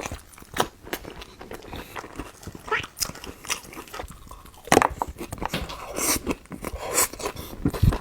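A person biting and chewing food close to the microphone: irregular crunches and wet mouth smacks, the loudest a little under five seconds in.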